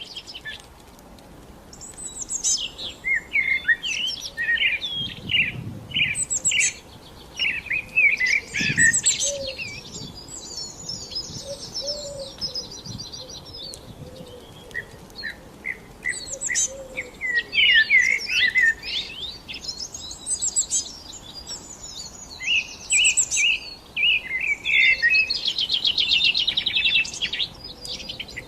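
Songbirds singing: a dense run of quick chirps, whistled notes and fast buzzy trills, with short lulls between phrases.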